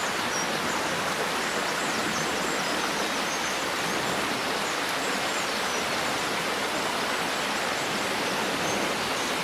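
Steady, even outdoor rushing noise with no change in level, with faint short high chirps now and then.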